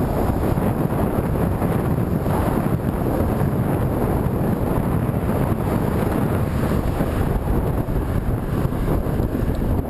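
Heavy wind buffeting the microphone, a steady loud rumble from riding a bicycle into a headwind.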